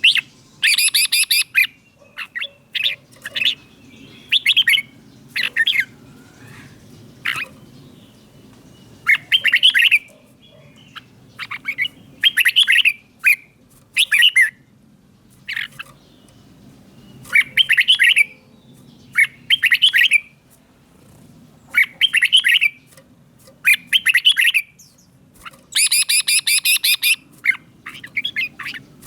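Red-whiskered bulbul singing: short, bright whistled phrases repeated every second or two, with a few denser, louder bursts of song.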